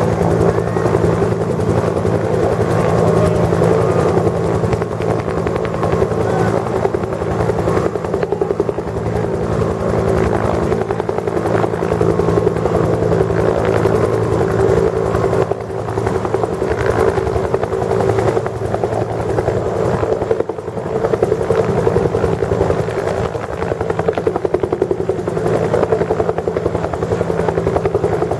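Bell UH-1H Huey helicopter running steadily as it moves off, its turbine and two-bladed main rotor making a fast, even beat, with the level dipping briefly twice in the second half.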